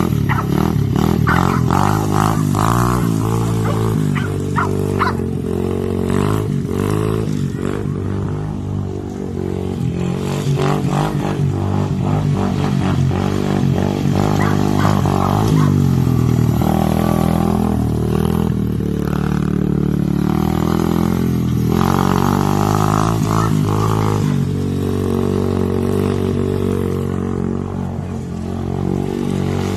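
Tao DB17 125cc four-stroke pit bike engine running, its revs rising and falling as it is ridden.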